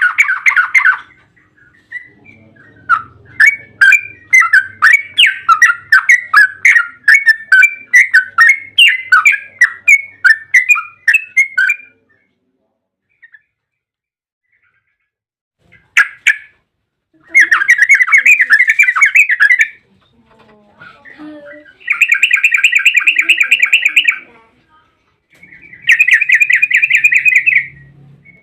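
Yellow-vented bulbul (trucukan) calling in bursts: a long series of quick chattering chirps, a pause, then three bouts of fast, rapid-fire trilling (the 'ropel' chatter).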